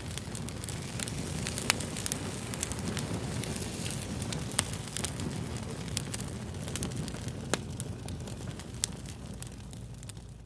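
Fire crackling: frequent sharp pops and snaps, a few louder than the rest, over a steady low rumble of burning.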